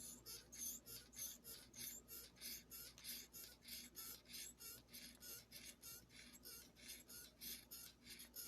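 Close-miked eating of creamy chicken ramen noodles: faint, quick, wet mouth sounds repeating evenly about three to four times a second.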